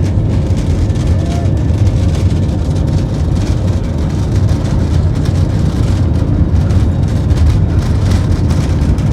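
Steady low rumble of a vehicle's engine and running noise, heard from inside the vehicle.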